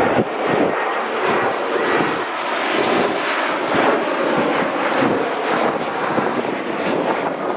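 Jet airliner's engines running as it passes close by on landing: a loud, steady rushing noise with a faint high whine in it.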